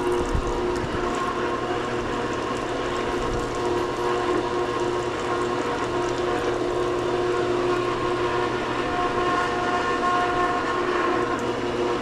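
Swimming pool pump running steadily while it is being primed: a constant motor hum with a few steady tones over the rush of water through the pump.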